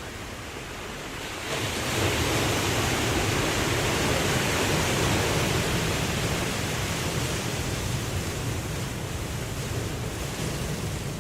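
Ocean surf: a wave breaks and washes in about a second and a half in, then slowly draws back and fades.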